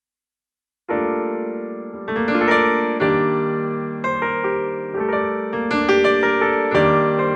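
Nord Stage 3 stage keyboard playing its 'Imperial Grand' sampled grand piano sound: after a silent first second, sustained chords are struck about once a second, each ringing and fading before the next.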